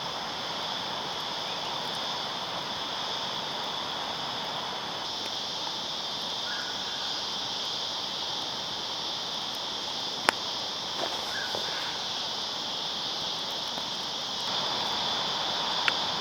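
Steady high-pitched insect chorus buzzing without a break over a constant low rush of outdoor noise. A single sharp click cuts through about ten seconds in.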